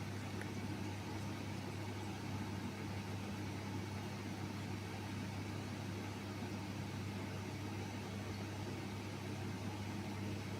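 Futon dryer's blower running: a steady low hum under an even airy hiss.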